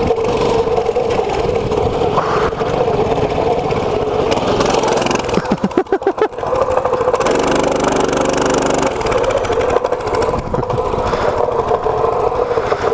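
Mini bike engine running under way, the pitch holding fairly steady, with a brief run of heavy low knocks and buffeting about halfway through.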